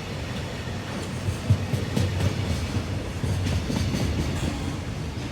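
Container freight train rolling past, a steady rumble with several sharp knocks as the wheels run over rail joints.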